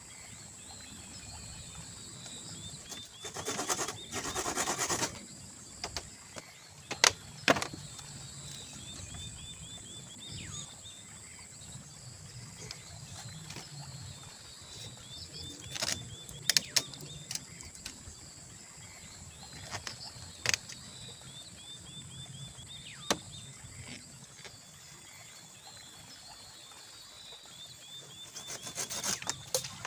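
Forest ambience: insects buzzing steadily at a high pitch and repeated short chirping trills, broken by a few sharp knocks and two spells of rustling.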